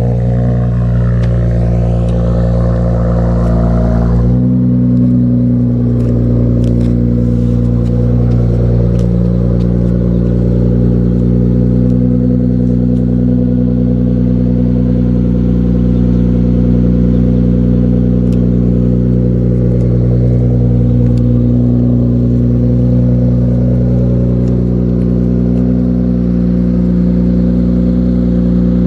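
Infiniti Q50 3.0t's twin-turbo V6 idling steadily, with an even, unchanging engine note.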